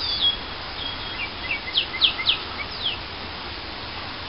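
Wild songbird calls over a steady outdoor hiss: a high whistled note that falls, a few short chirps, then several quick downward-sliding notes in the middle.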